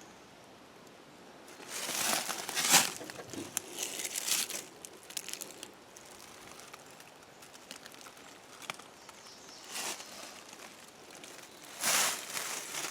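Footsteps rustling and crunching through dry leaves and brush in irregular bursts, loudest about two to three seconds in and again near the end.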